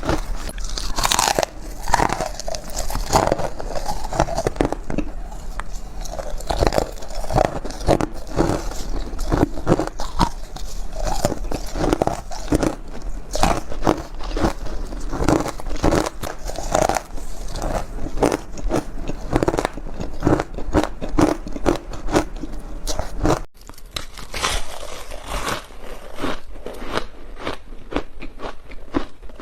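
Ice being bitten and chewed close to the microphone: a fast, continuous run of sharp crunches and crackles.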